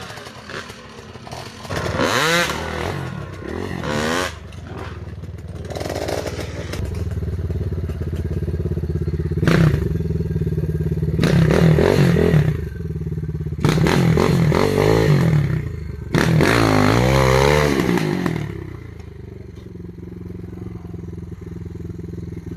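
Gas Gas EC200 two-stroke enduro motorcycle engine revving in repeated throttle bursts, its pitch rising and falling with each one, with some clattering. It drops to a lower, steadier running note for the last few seconds.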